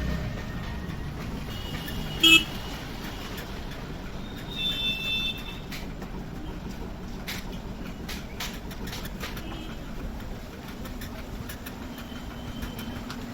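Two vehicle horn honks over steady background traffic noise: a short, loud blast about two seconds in and a fainter double honk around five seconds, with scattered light clicks and taps in between.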